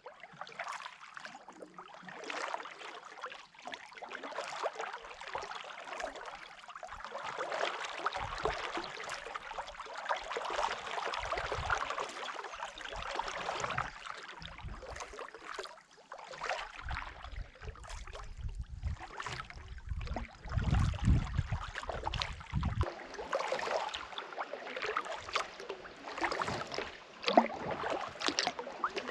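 Kayak paddle strokes in calm lake water: repeated dips and splashes with water dripping and trickling off the paddle blades. A low rumble comes in for a few seconds past the middle.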